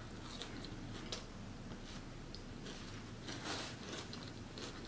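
Close-up chewing of crisp romaine lettuce from a Caesar salad: faint, irregular crunches and mouth clicks. A brief napkin rustle comes near the end.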